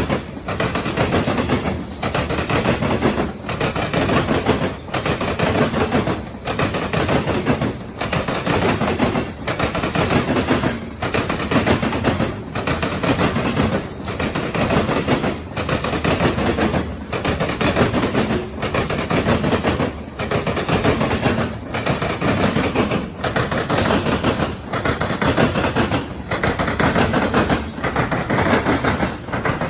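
Freight train's grain cars rolling over a railroad diamond crossing, their wheels pounding out rapid clattering impacts. The pattern repeats about every second and a half as each car passes.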